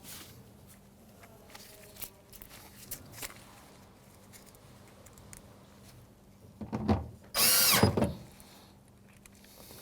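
Cordless drill with a Phillips bit driving in a screw. Its motor whines once, loudly and briefly, about seven seconds in, rising and falling in pitch, after a short first burst. Before that there are only a few light clicks of handling.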